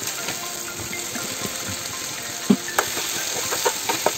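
Food sizzling steadily in a hot frying pan. From about two and a half seconds in, a metal slotted spoon knocks and scrapes against the pan as the added pieces are stirred in.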